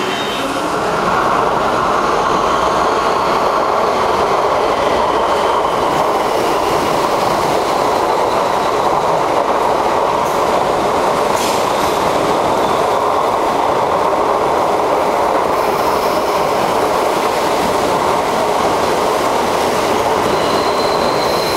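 MTR East Rail Line MLR electric multiple unit train running past on the near track: a loud, steady rumble of wheels on rail that builds about a second in, with faint high squeals in the first several seconds.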